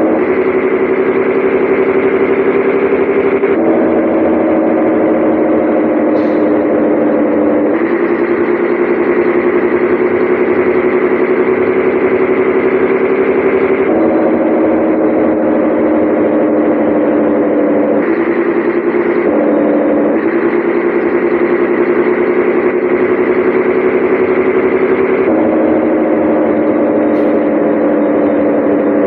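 Scania 113H 360 truck's six-cylinder diesel engine running under load. Its note climbs slowly, then changes pitch abruptly about every four to six seconds, as with gear changes while driving.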